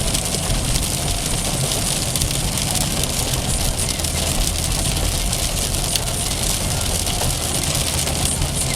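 Heavy rain pelting a car, a steady dense hiss over the low rumble of the car's engine and tyres on a flooded road.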